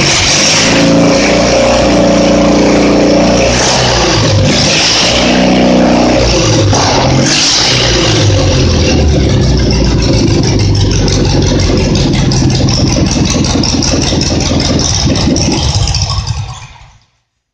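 Kohler Magnum M20 twin-cylinder engine running after a reseal: revved up and down a few times, then running steadily, and shut off near the end.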